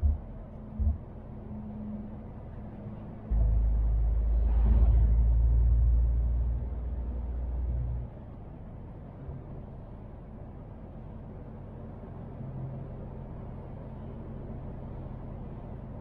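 MAN TGX truck's diesel engine running with a steady low hum, swelling into a much louder low rumble for about five seconds a few seconds in before settling back. Two short low thumps just at the start.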